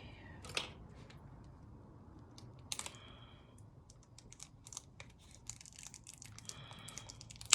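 Handling and opening of makeup packaging: many light clicks and taps with short spells of crinkling or scraping, and a sharper click near the end.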